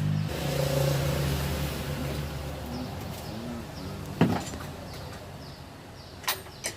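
A vehicle engine runs with a steady low rumble that fades after about three seconds. A single sharp metallic knock follows about a second later, and two short clicks come near the end.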